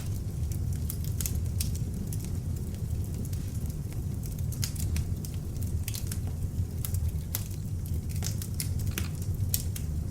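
Beech-wood log fire burning in an open fireplace: a steady low rumble of flames with frequent small, irregular crackles and pops.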